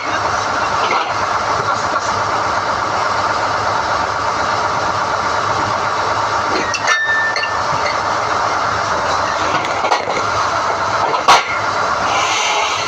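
SDH-1600 core drilling rig running steadily while NQ drill rods are hoisted out of the hole. A short click comes about seven seconds in and a sharp knock about eleven seconds in.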